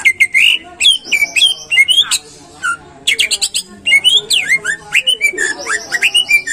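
Greater green leafbird (cucak ijo) singing loudly: a fast run of sharp chirps and rising and falling whistled slurs, with a brief pause a little past two seconds in.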